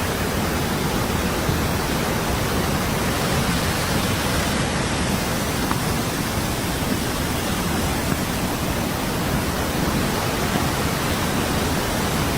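Steady, even rushing of floodwater from a river overflowing its banks.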